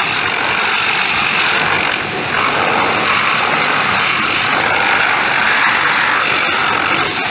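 Steady hissing spray of a pressure-washer jet, constant with a few brief interruptions.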